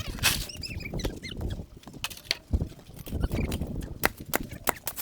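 Irregular crunching and knocking of hard-packed snow, with a low rumble underneath.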